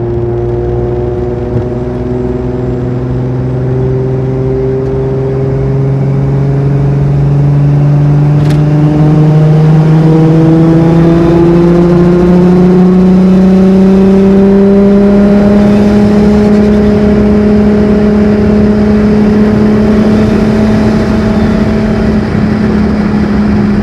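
Turbocharged RB25DET straight-six of a Nissan Skyline R33 GTS-t, fitted with a GTX3076 turbo and titanium exhaust, running as the car drives, heard from inside the cabin. The engine note climbs slowly and steadily in pitch and grows louder over the first several seconds.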